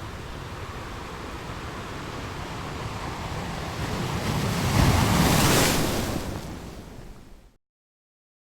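Sea surf: a steady wash of waves that swells to a loud breaking wave about five seconds in, then recedes. The sound cuts off abruptly near the end.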